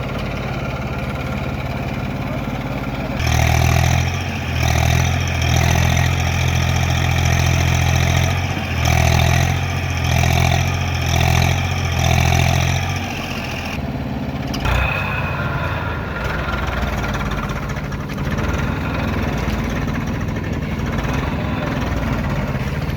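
Tractor engine running. From about three seconds in, it runs louder in a series of surges for about ten seconds, as if revving under load, then settles back to a steady idle.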